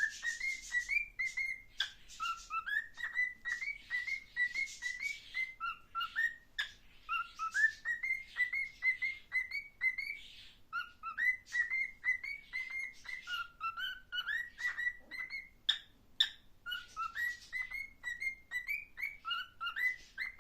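Cockatiel whistling a tune over and over: short phrases of clear notes that step up in pitch, with quick clicks and scratchy chatter between them.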